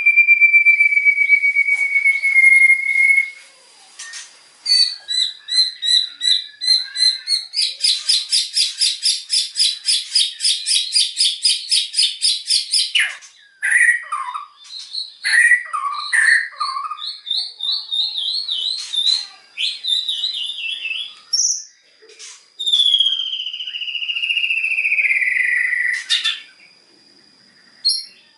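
White-rumped shama (murai batu) singing loudly. It opens with a long held whistle, then runs a fast trill of rapidly repeated notes for about five seconds, followed by varied short phrases and a long falling whistle near the end.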